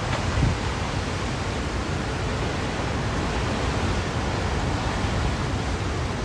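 Hurricane wind and rain: a steady rushing noise, with the wind buffeting the microphone in low rumbles and a stronger gust about half a second in.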